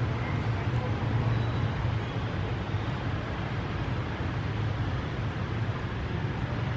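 Steady low rumble under a broad hiss of outdoor background noise.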